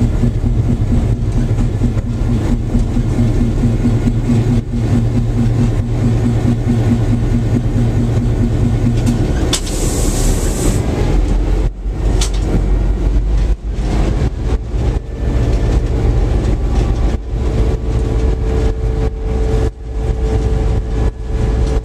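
EMD FP7 diesel locomotive running, heard from inside the cab: its engine gives a steady heavy rumble. A rapid pulsing tone runs for the first nine seconds, and a short hiss comes about ten seconds in.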